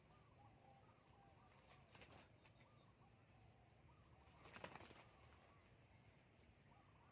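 Near silence: faint bird chirps throughout, with a soft rustle about two seconds in and a louder brief rustle, like a flutter, about four and a half seconds in.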